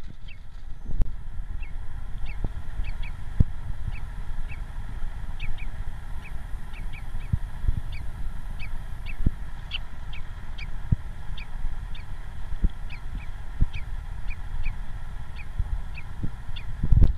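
A small bird giving short, high chirps, each a quick downward sweep, repeated irregularly about once or twice a second, over low rustling and knocks.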